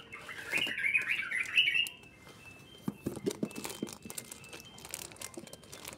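A small bird chirping in a quick run of notes for about two seconds. After that comes the crinkling and rustling of a plastic bag being handled.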